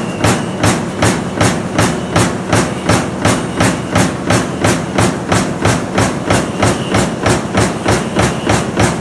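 Stamping press running a lamination die that punches kitchen fan motor laminations: a steady rhythm of sharp metallic strokes, about three a second, over a continuous low machine hum.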